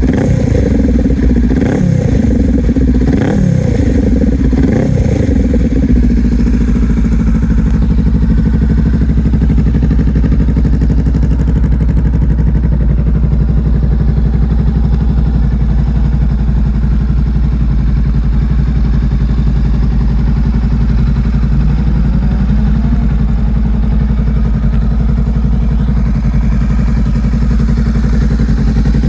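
2019 Honda CMX500 Rebel's parallel-twin engine through a Lextek aftermarket silencer, blipped about five times in the first six seconds and then idling steadily with a little growl to the exhaust.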